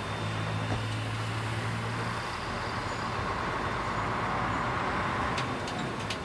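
Container truck on the move: a steady low diesel engine hum for the first couple of seconds, then road and traffic noise that swells and eases again, with a few light clicks near the end.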